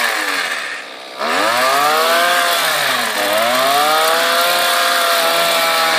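Chainsaw running hard while cutting branches, its engine pitch dipping and rising. It drops back briefly just before a second in, then revs up again and holds high.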